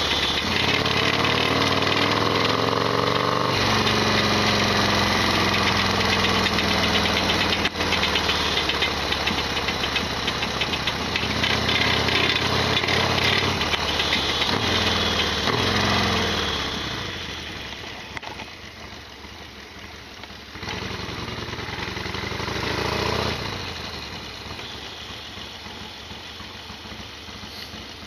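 Harley-Davidson XL1200R Sportster V-twin engine running under way, its pitch rising and falling with throttle and gear changes. About two-thirds through it drops off and gets quieter as the bike slows, with one short swell of throttle before it settles low.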